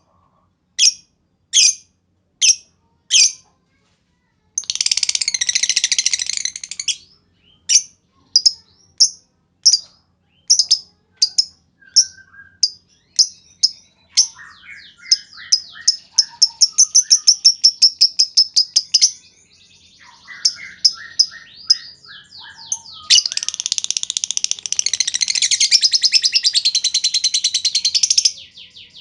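Lovebird calling: sharp single chirps in a steady ticking series ("ngetik"), breaking twice into long, rapid chattering trills ("ngekek panjang"), one about five seconds in and a longer one near the end. In between is a fast run of quick chirps.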